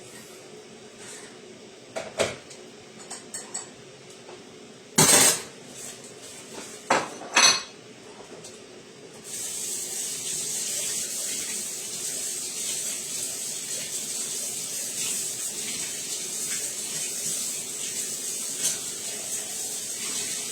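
Pots, plates and cutlery clinking and knocking a few times, the loudest knocks about five and seven seconds in. About nine seconds in, a steady sizzle starts suddenly and keeps going: food frying in a hot pan.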